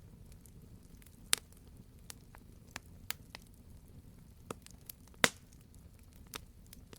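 Wood fire crackling in a fireplace: scattered sharp pops and crackles over a low, steady rumble. Two loud pops stand out, about a second in and about five seconds in.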